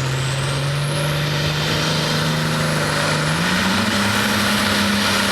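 John Deere 4255 pulling tractor's diesel engine running hard under load, its pitch stepping up a little past halfway as the revs climb, with a high whistle rising in pitch early on.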